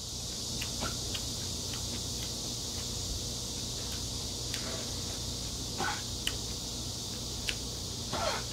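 A man chewing food, with scattered small clicks and a few short soft mouth smacks, over a steady high-pitched hiss.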